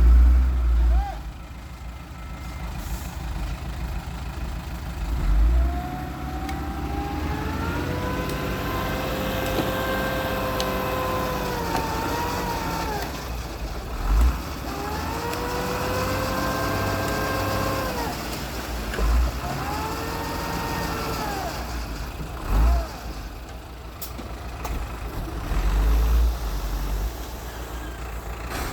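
Heavy diesel earthmoving machinery working. An engine's pitch rises under load and falls back three times, the longest sweep lasting about five seconds, and short low thumps come every few seconds.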